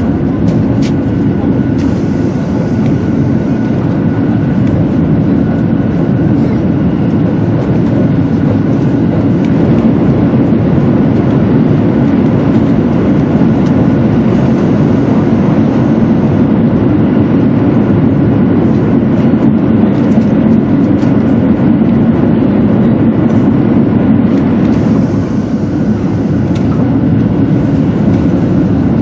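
200 series Shinkansen running at speed, heard from inside the passenger cabin: a steady, loud rumble of wheels and running gear, with a faint high whine above it.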